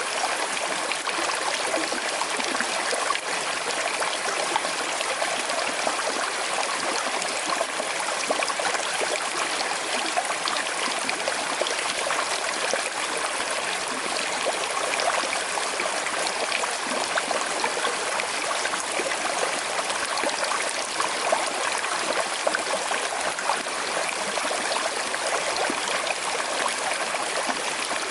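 A small river flowing over stones with a slight current, a steady babbling and trickling.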